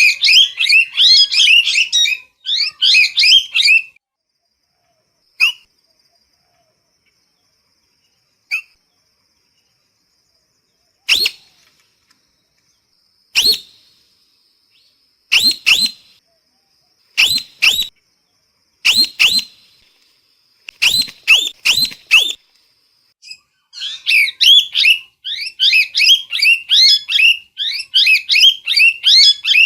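Parrot calling: fast runs of chattering chirps in the first few seconds and again over the last several seconds, with separate sharp calls, singly and in twos and threes, in between.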